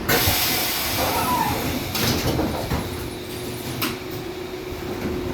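Tram doors working: a sudden loud hiss of air at the start, fading over about a second, with a few clunks. A steady hum from the tram's equipment comes in about halfway through.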